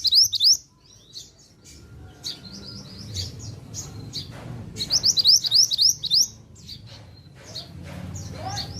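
A pied bushchat (mantenan) singing, with rapid phrases of high, quick sweeping chirps. One loud phrase comes at the start and another about five seconds in, with softer notes between them.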